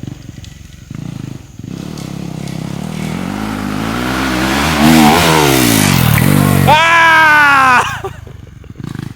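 Dirt bike coming in fast, its engine pitch climbing to a loud peak as it passes close about five seconds in and then falling, followed by one sharp rev that drops away near the end as the bike goes over the jump.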